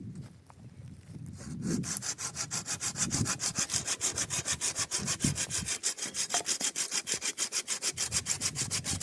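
Hand saw cutting through wood with quick, even back-and-forth strokes, starting about one and a half seconds in.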